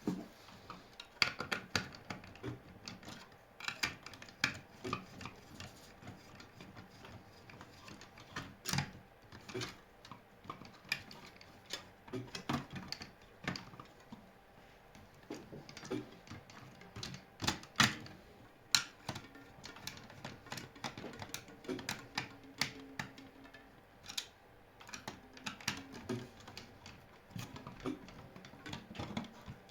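Irregular clicks and light knocks of small parts and tools being handled, scattered unevenly and varying in loudness.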